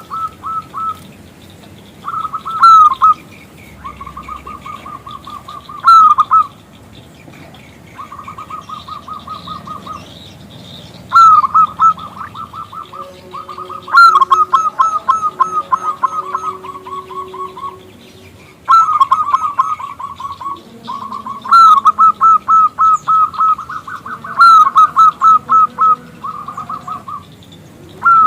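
Zebra dove (perkutut) calling in repeated phrases of rapid staccato coo notes, about eight to ten a second, each phrase lasting one to three seconds with short pauses between. Some phrases overlap, as from more than one bird.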